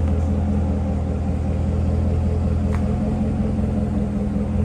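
2017 Corvette Stingray's 6.2-litre V8 running steadily at low engine speed through an aftermarket Flowmaster exhaust, a deep, even rumble with no revving.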